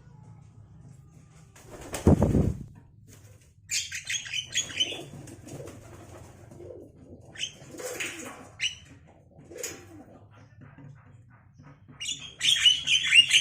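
Javan mynas: a short wing flap about two seconds in, then groups of high, quick chirping calls, the loudest group near the end. The calls are typical of begging chicks at feeding.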